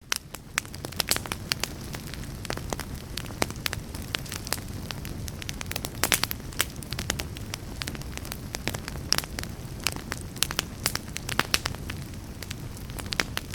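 Fire in a fireplace crackling and popping: many sharp, irregular pops a few times a second over a steady low rumble of the flames.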